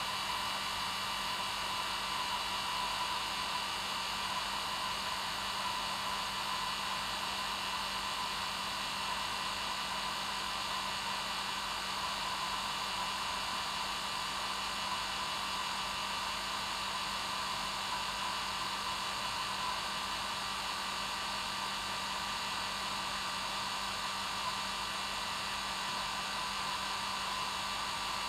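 Hair dryer running continuously on its normal setting: a steady hiss of blown air with a constant motor hum underneath.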